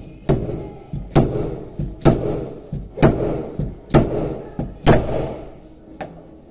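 Repeated hammer blows on a car body panel, about one heavy strike a second with lighter taps between, each blow ringing briefly: panel beating to work out a dent.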